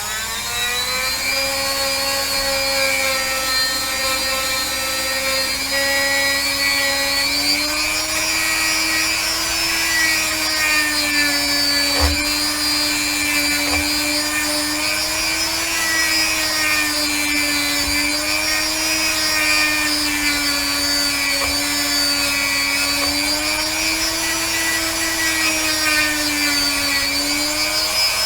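Rotary tool spinning up and running with a silver-bristled wire brush bit, polishing a pewter cast. Its steady whine wavers slightly in pitch throughout.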